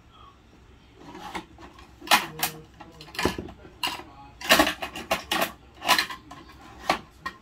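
Hard plastic clacking and rattling from a Bruder toy garbage truck and its toy bins being handled: a run of irregular sharp knocks and clatters, busiest in the middle.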